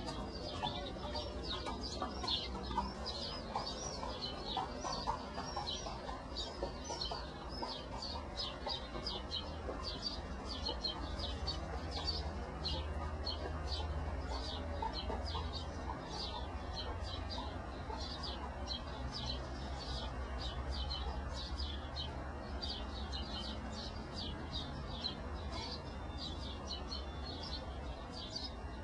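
Many birds chirping continuously, short high chirps following one another several times a second, over a steady low rumble.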